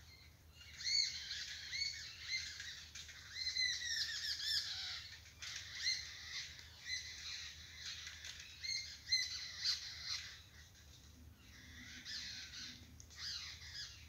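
Wild birds calling and chirping, a busy run of short, high, sliding notes overlapping one another, thinning out about ten seconds in and picking up again near the end.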